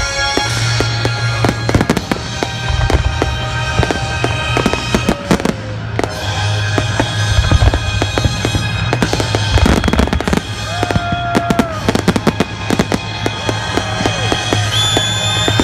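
Fireworks going off in a rapid, dense string of bangs and crackles, over background music with a steady low bass line.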